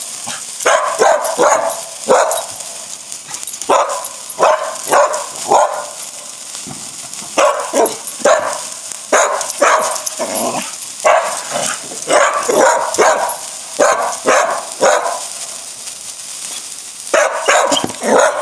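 A dog barking repeatedly in short runs of two to four barks, with brief pauses between the runs, over a steady high hiss.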